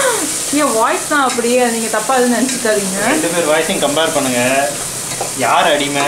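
Onion and tomato masala frying in a pan with a steady sizzle, with a person's voice over it.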